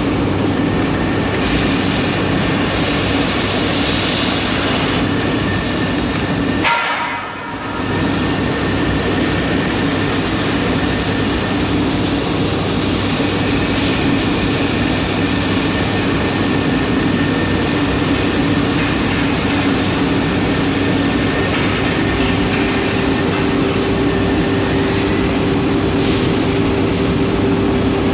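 Compressed air rushing through a cutting machine's nozzle over a steady machine hum, with a few steady tones. The noise drops briefly about seven seconds in, then resumes.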